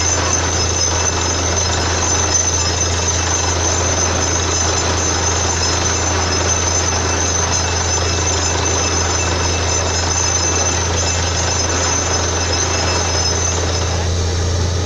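Borewell drilling rig running steadily: a loud, unbroken machine drone with a dense hiss and a thin high whine over it.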